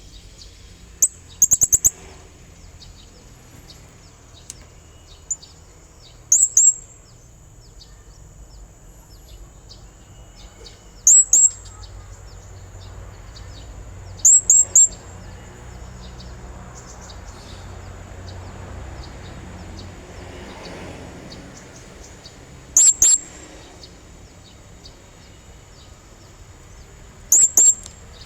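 Blue-crowned hanging parrot (serindit) giving shrill, very high, short calls in quick bursts of two to four, repeated every few seconds.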